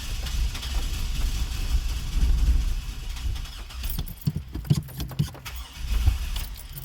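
Starter cranking the 2002 Chevy Blazer's engine, which does not fire, followed by a run of sharp clicks and knocks. The Blazer will not start after days of rain, despite a new distributor cap and rotor.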